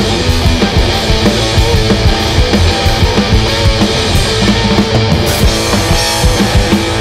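Live punk-blues rock band playing loudly: distorted electric guitar over a driving drum kit.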